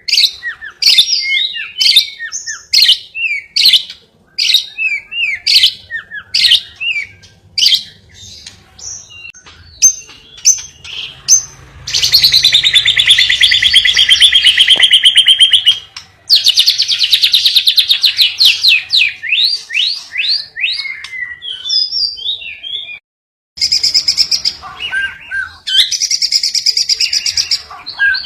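Cage-bird song played as a training (masteran) track: sharp, quickly repeated chirps for about the first ten seconds, then long, fast rattling trills. The sound cuts out completely for a moment about 23 seconds in, and another trilling song follows.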